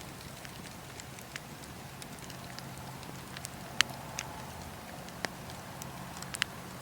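Wood fire burning in a fireplace: a steady low rumble and hiss with scattered sharp crackles and pops, the loudest a little before four seconds in and a quick pair near the end.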